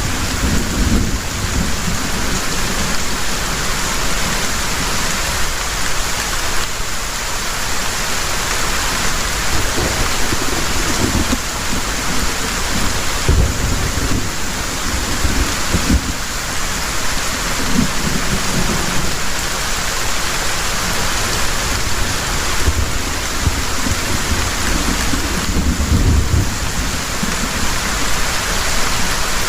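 Heavy rain falling steadily, with low rumbles of thunder swelling up several times.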